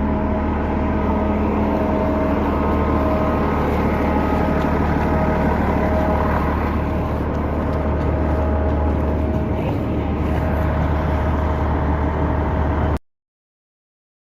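An engine running steadily with a low rumble and a few steady tones. It cuts off abruptly into silence about a second before the end.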